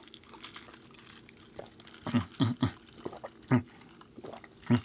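A person drinking through a straw and swallowing in loud, low gulps: five of them, from about two seconds in.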